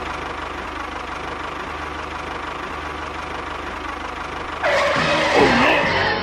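A small engine running steadily at idle with an even low pulse. About four and a half seconds in, a louder, different sound with sliding pitch takes over.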